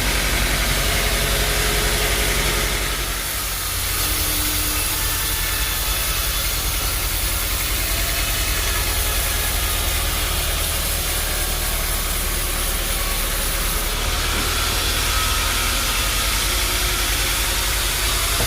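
Bandsaw sawmill machinery running steadily: a continuous low engine hum with a hiss on top.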